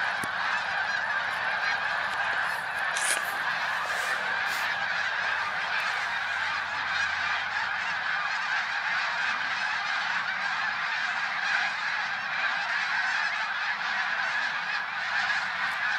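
A large flock of geese honking all together, a steady unbroken chorus of many overlapping calls.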